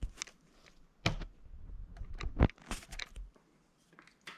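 Workshop handling noise: metal tools and parts being moved and set down, a string of clicks and knocks with a short rattle between, the sharpest about a second in and halfway through.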